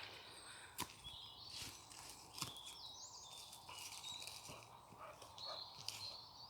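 Faint outdoor woodland ambience: distant birds chirping high and intermittently, with a few soft clicks about a second and two and a half seconds in.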